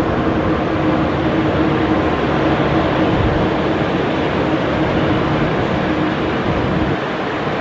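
Steady, loud rushing noise of airliner jet engines, with a faint steady hum in it.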